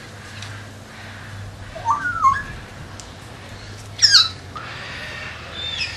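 Bird calls: a short rising-and-falling call about two seconds in, a loud sharp call sweeping steeply down in pitch about four seconds in, and a brief high call near the end.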